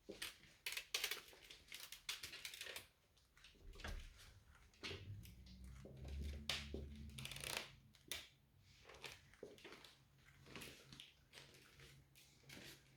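Domestic cat's low, steady growl, a drone heard from about five seconds in for some three seconds and again near the end: hostility toward a housemate cat just back from spaying, which the owner puts down to her smelling of the clinic. Sharp clicks and rustles, loudest in the first few seconds, come and go throughout.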